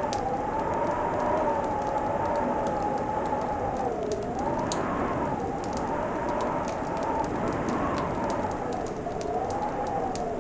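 Fireplace crackling, with irregular sharp pops over a steady hiss, while a hollow tone wavers slowly up and down in pitch underneath.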